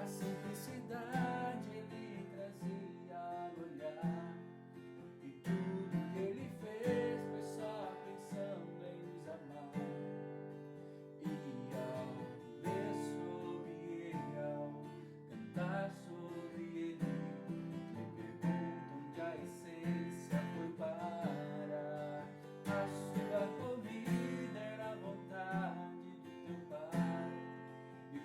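Acoustic guitar playing strummed chords: instrumental music with a steady run of chord attacks.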